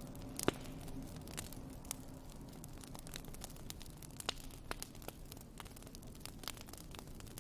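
Wood fire in a fireplace crackling: irregular sharp pops and snaps over a soft steady hiss, the loudest pop about half a second in.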